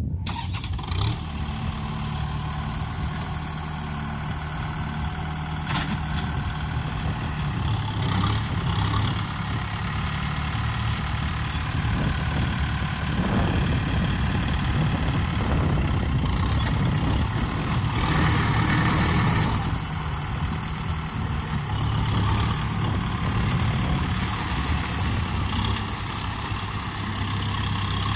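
Kubota M6040SU tractor's diesel engine running steadily, swelling a little in level now and then.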